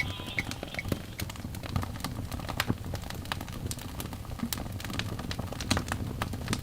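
Fireplace crackling: irregular sharp snaps over a low steady rumble.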